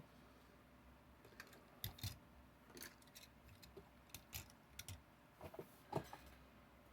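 Faint, scattered clicks and taps, about a dozen irregular ones, of toy die-cast trucks being handled.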